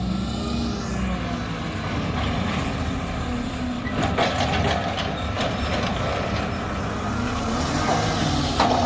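Diesel engine of a Mack garbage truck with a McNeilus front-loader body running, its pitch rising and falling, with a few sharp knocks about four to five seconds in and a louder burst of noise near the end.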